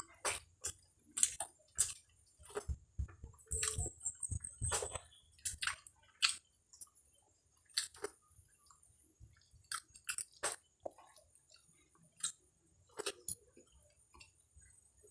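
Close-up chewing and biting of fried cempedak rind, a run of irregular sharp crunches and mouth sounds.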